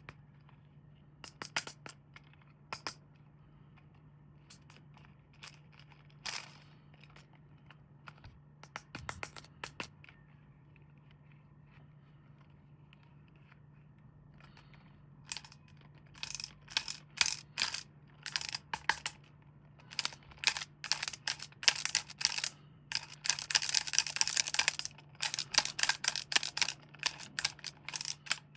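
Toy packaging being handled and opened: scattered sharp clicks and rustles that become a rapid, busy run of clicks after about fifteen seconds, with a stretch of tearing lasting about two seconds near the end. A steady low hum runs underneath.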